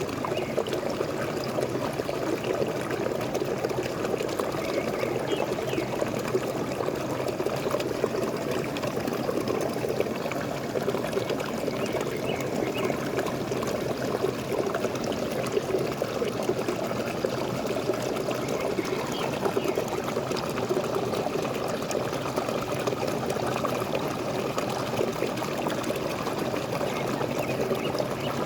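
Water from a small waterfall splashing and pouring steadily.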